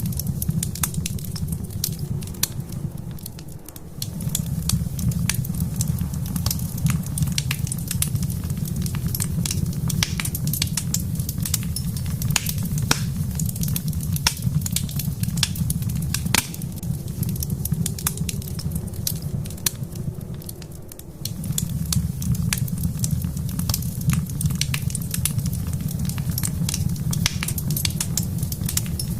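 Wood fire crackling and popping in a fireplace: irregular sharp snaps of varying loudness over a steady low rumble that dips briefly twice.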